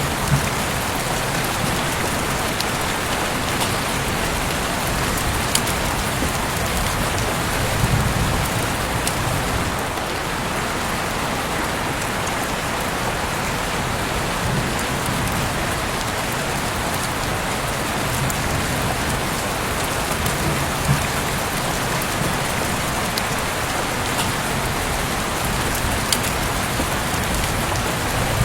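Heavy rain falling steadily: an even hiss with scattered sharp ticks of single drops.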